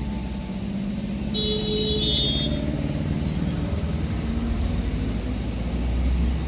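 Low rumble of a moving train, swelling near the end, with a brief high-pitched tone about a second and a half in.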